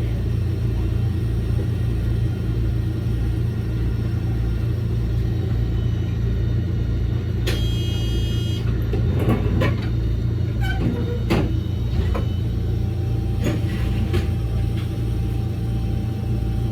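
Electric train of the Toyama Chihō Railway running along the track, with a steady low rumble and hum. About eight seconds in there is a brief shrill tone lasting about a second, then a few sharp clicks.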